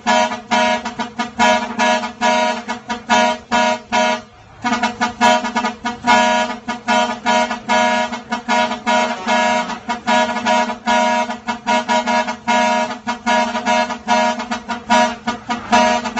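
Ten-wheeler truck's musical air horn playing a rhythmic tune in rapid short blasts, several a second, over a steady lower tone, with a brief break about four seconds in.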